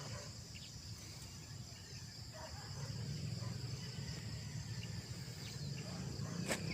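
Steady, high-pitched chorus of insects outdoors, with a low rumble growing through the second half and a single sharp click near the end.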